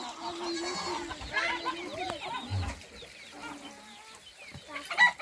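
Chickens clucking, many short overlapping calls that thin out after the first few seconds. A sharp knock near the end is the loudest sound.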